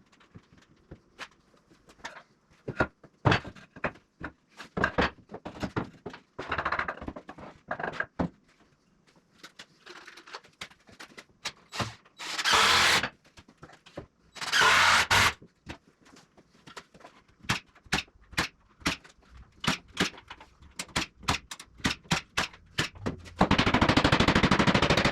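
Carpentry work on a wooden frame: scattered knocks and clicks of boards and tools being handled, two bursts of about a second each around the middle, and a fast, steady rattle starting near the end.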